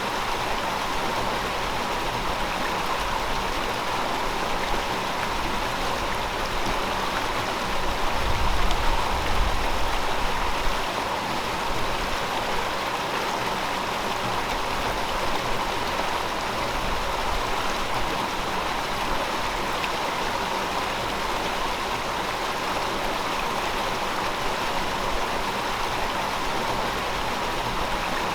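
River water flowing steadily over rocks, a continuous rushing sound. About eight seconds in, a low rumble swells for a couple of seconds.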